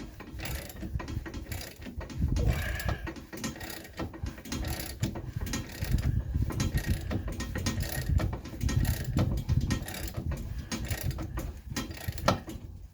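Ratchet wrench clicking and metal tool noise as it is worked back and forth, forcing the stuck sway bar end link shaft out of the lower control arm bushing.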